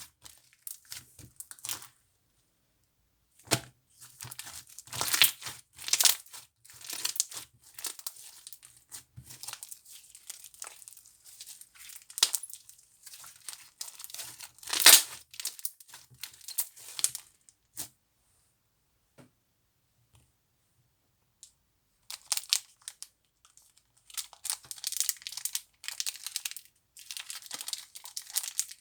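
Slime being worked by hand, crinkling and crackling in bursts with short pauses in between.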